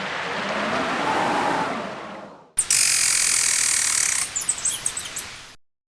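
Strong wind howling, its pitch rising and falling, then an abrupt cut to a loud bright hiss with sharp crackles that stops dead about a second before the end.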